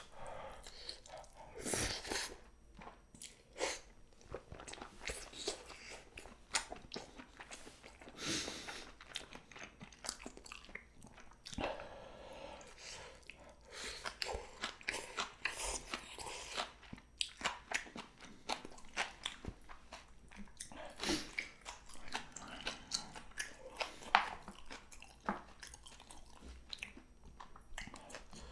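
Close-miked eating sounds of spicy cheese jjimdak (Korean braised chicken): chewing, biting and wet mouth smacks coming as many short, irregular clicks.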